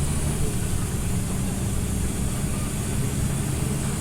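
Scania OmniLink CL94UB city bus engine running steadily with a low hum, over even road and cabin noise.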